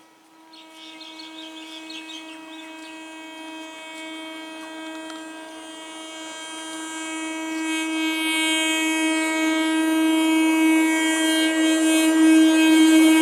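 Horn of an approaching train sounding one long, steady-pitched blast that grows steadily louder as the train nears.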